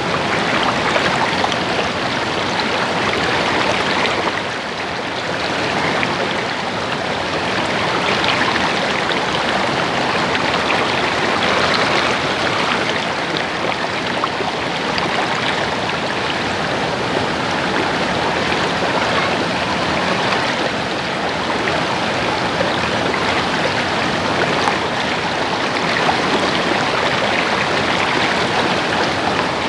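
Stream water babbling steadily, a continuous rushing and trickling without pause.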